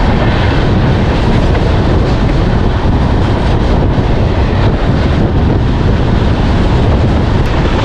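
Steady loud rush of a moving passenger train passing close alongside a long freight train of open wagons on the next track, with heavy wind buffeting the microphone.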